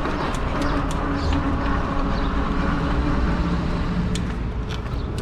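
Riding noise on a fat-tire e-bike: wind on the microphone and a steady low hum from the moving bike, with a few light ticks.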